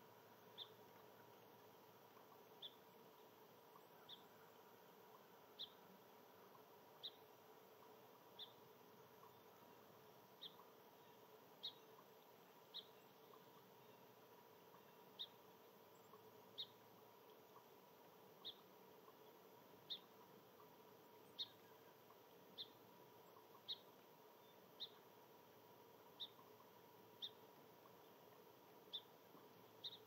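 A small bird's short, high chip call, repeated evenly about once every second and a half, faint, over a faint steady hum.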